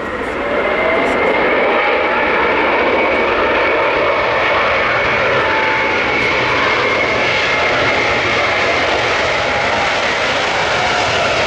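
Jet aircraft engines running loud and steady as the plane passes close, a high whine over a broad rush of sound; it swells up about half a second in.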